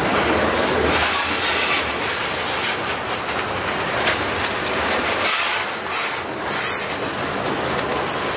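Norfolk Southern freight cars, covered hoppers and boxcars, rolling past close by: a steady noise of steel wheels on rail with repeated clicking as the wheels cross rail joints.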